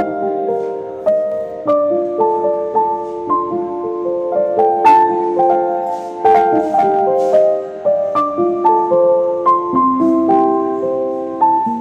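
Soft piano music, a melody of held notes over a gentle accompaniment.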